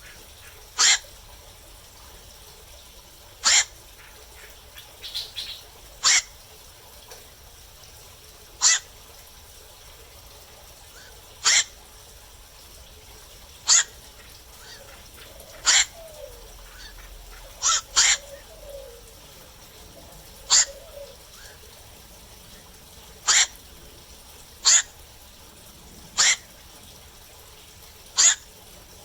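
Black-crowned night heron giving short, harsh single calls, one about every two to three seconds, with a quick double call midway.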